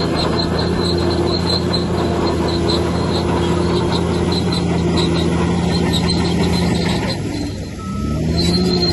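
Bulldozer's diesel engine running under load, with its crawler tracks squeaking about two or three times a second. About seven seconds in the engine drops off briefly, then revs back up.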